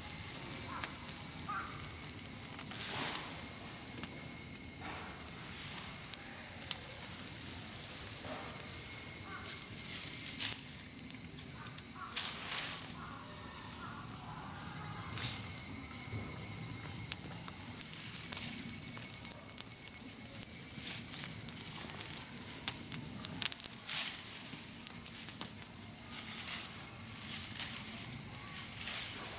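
A steady high-pitched chorus of insects, with a campfire's burning wood crackling and giving sharp pops now and then.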